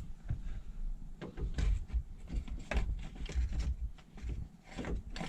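Scattered light knocks, clunks and scrapes as a car air-conditioner cooling fan motor assembly is shifted and pushed against surrounding metal parts while being fitted.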